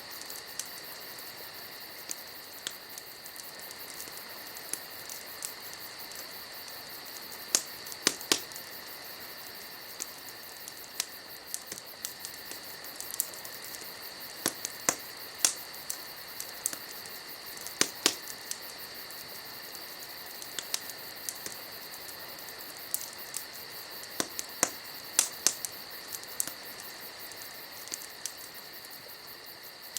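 Campfire crackling: irregular sharp pops and snaps over a steady hiss, bunching into quick flurries several times.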